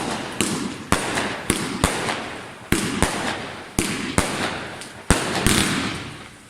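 Fireworks going off: about ten sharp bangs, roughly half a second to a second apart, each followed by a fading hiss.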